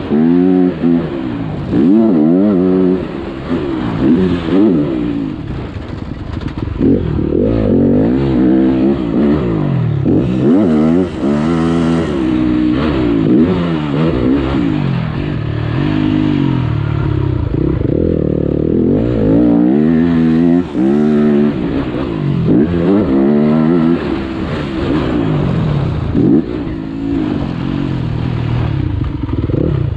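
Motocross bike engine revving hard, its pitch repeatedly climbing and dropping every second or two as it accelerates, shifts and backs off.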